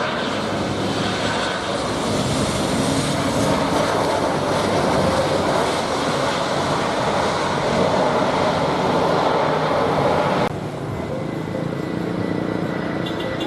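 Jet airliner engine noise, a loud, steady rushing sound with a faint high whine. About ten seconds in it switches abruptly to a duller, slightly quieter engine sound.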